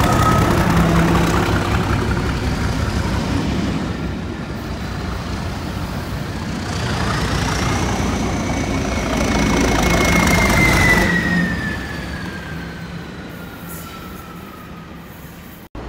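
Train passing close by: a loud rolling rumble with an engine note underneath, louder near the start and again around ten seconds in. Over the second half a high whine rises a little, then slides down in pitch as the train draws away. The sound fades near the end and cuts off abruptly.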